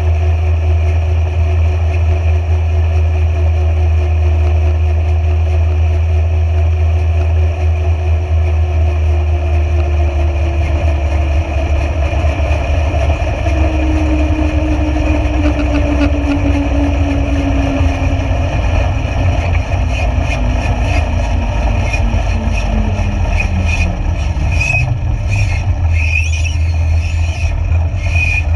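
A vehicle engine running steadily with a loud low drone. A separate tone slowly falls in pitch through the middle, and scattered clicks and knocks come near the end.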